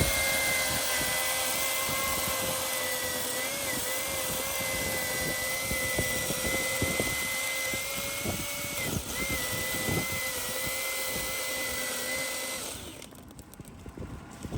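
Milwaukee M18 cordless electric chainsaw running with a steady whine as it cuts through a log, dipping briefly twice under load, then stopping near the end.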